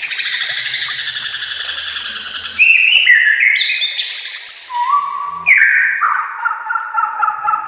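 White-rumped shama (murai batu) singing: a fast, buzzy rattle for the first two and a half seconds, then a run of clear whistled notes stepping up and down, then a string of repeated whistles.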